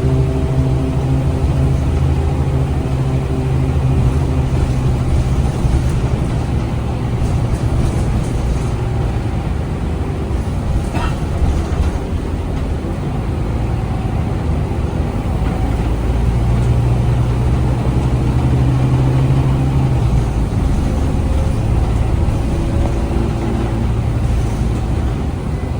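Scania K250UB city bus's DC9 five-cylinder diesel engine and ZF Ecolife automatic gearbox heard from inside the passenger cabin while the bus is under way. The engine hum grows stronger for several seconds under power, then drops off sharply about twenty seconds in as the load eases or the gearbox shifts.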